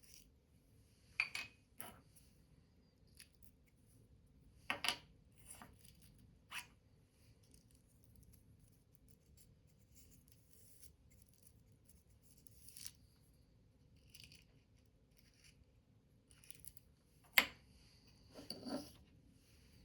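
Paper being cut with scissors and handled: a scattered series of short snips, taps and rustles a few seconds apart, the sharpest one near the end.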